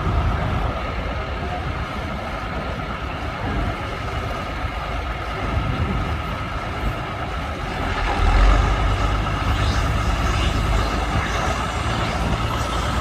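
Tractor engine running under load during a tractor pull, a steady engine note with a deep rumble that grows louder about eight seconds in.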